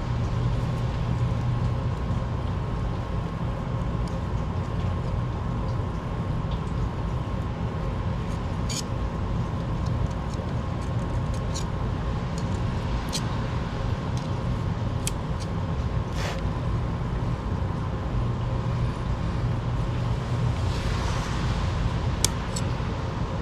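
Steady background hum and noise, with occasional light clicks of small metal carburetor parts being handled and fitted.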